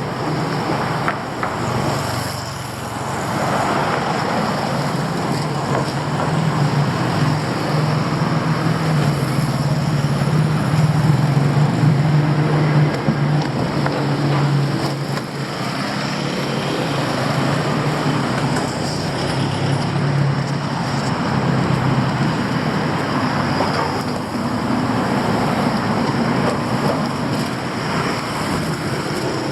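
Road traffic: vehicle engines running with a steady low hum over general traffic noise. A vehicle gets louder near the middle, then eases off.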